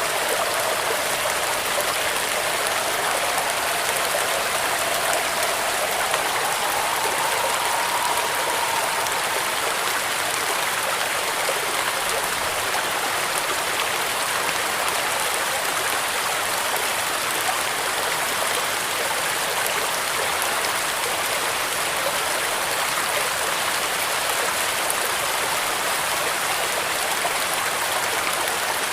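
Steady, heavy rain, a continuous even hiss of rain pattering on a corrugated metal roof. During the first nine seconds or so a faint whistling tone rises slightly and then fades out.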